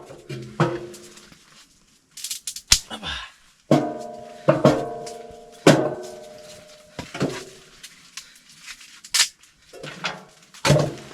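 Firewood being split and handled with an axe: a series of sharp wooden knocks at irregular intervals, several of them leaving a short ringing tone.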